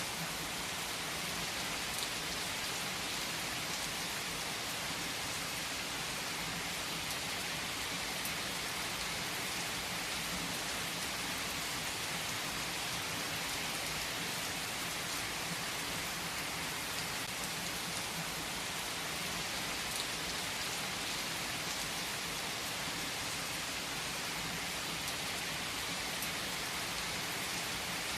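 Steady rain falling: an even hiss with a few sharper individual drops ticking through it.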